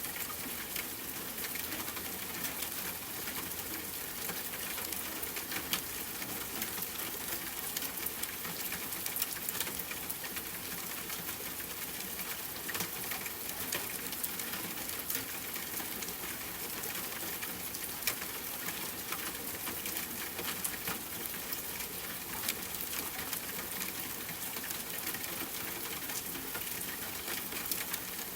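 Steady rain falling on a tent, layered with campfire crackling: a constant hiss dotted with many small sharp clicks and pops.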